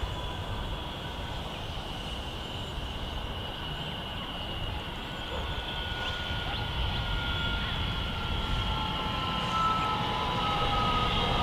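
Electric multiple-unit passenger train approaching and growing louder, with a whine in several tones that slowly falls in pitch over a steady rumble.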